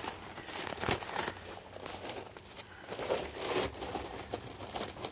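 Irregular crunching and rustling scuffs, with a few sharper clicks about a second in and again a little past three seconds.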